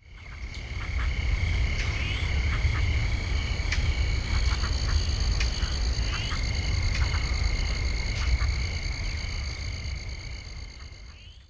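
A chorus of small animals calling, in steady high trills with a faster pulsing chirp and scattered short calls, over a low rumble. It fades in at the start and fades out near the end.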